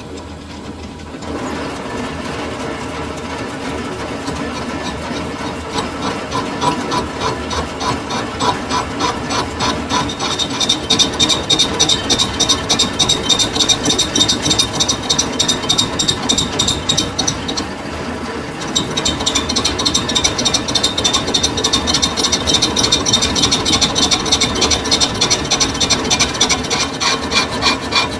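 Metal lathe running while a tool cuts a metal bush, a fast, even scraping with a high ring on top. It stops for a moment about two-thirds of the way through and starts again.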